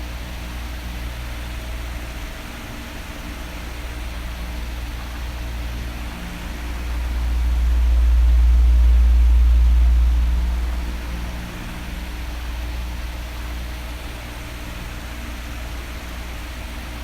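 Electric fan blowing steadily: an even hiss over a low rumble. The rumble swells louder for about four seconds in the middle, then settles back.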